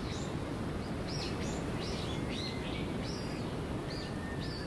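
Small birds chirping, short high calls about two or three a second, over a steady background of outdoor noise.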